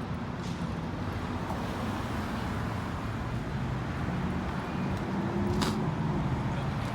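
Car engine and road noise, a steady low rumble, with a single sharp click about five and a half seconds in.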